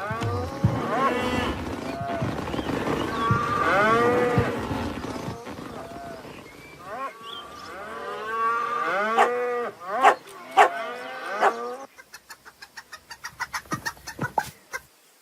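Animal calls, many of them overlapping, each rising and then falling in pitch, for about twelve seconds. They stop abruptly and give way to a quick run of light clicks or taps.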